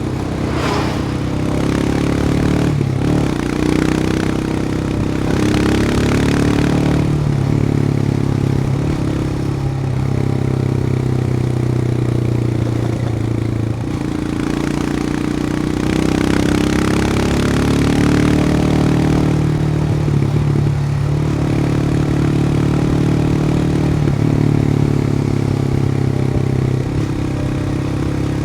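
Royal Enfield Himalayan's 411 cc air-cooled single-cylinder engine running steadily while riding, its note dipping briefly and shifting in pitch several times as the throttle is eased and reopened. Wind noise rises and falls over it.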